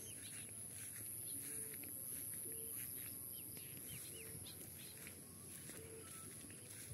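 Small birds chirping with short calls and quick downward-sliding notes, over a steady high-pitched insect drone. A short low note repeats every second or two.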